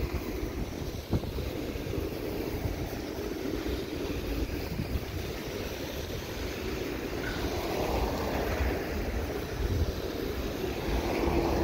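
Freight cars of a CN train rolling across a steel railway overpass: a steady rumble of wheels on the rails. Cars drive on the snowy road beneath, and the noise swells a little around eight seconds in.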